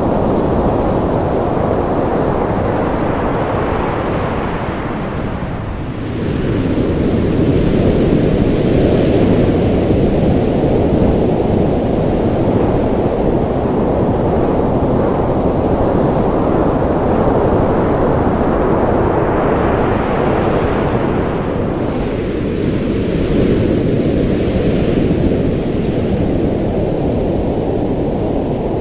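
Ocean surf: a continuous deep rush of water, with a wave swelling and breaking into a brighter hiss about six seconds in and another about twenty seconds in.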